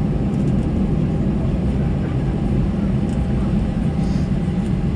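Steady low rumble of an Airbus A320-214's CFM56 engines at taxi thrust, heard inside the passenger cabin as the jet taxis.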